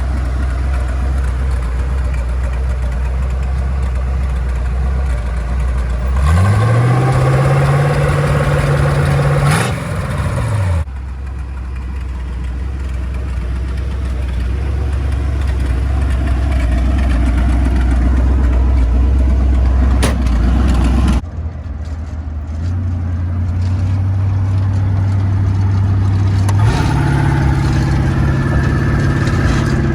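Twin-turbo, fuel-injected 350 small-block Chevrolet V8 running under way: a low, steady engine note that rises in pitch about six seconds in, holds, then drops away, and rises again near the end as it accelerates.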